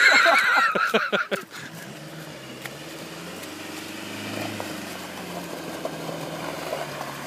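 A loud voice in the first second and a half. Then a Land Rover Discovery's engine running steadily as the 4x4 drives through deep mud, swelling briefly about four seconds in.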